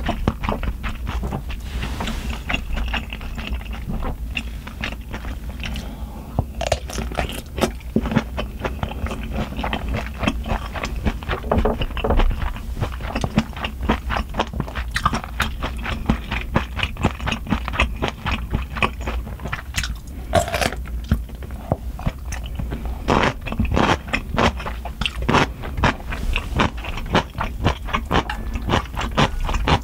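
Close-miked chewing and crunching of food, a dense run of small wet crackles and crisp snaps, with louder bites around the middle and in the last third.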